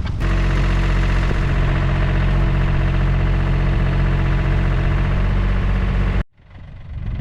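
John Deere 870 compact tractor's diesel engine running steadily, then cutting off abruptly about six seconds in.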